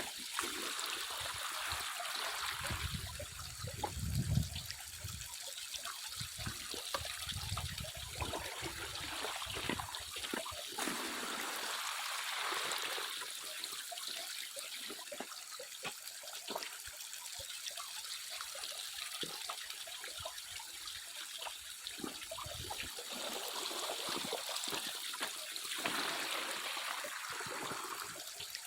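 Water trickling and splashing, with many small clicks and knocks through it and some low rumbles in the first few seconds.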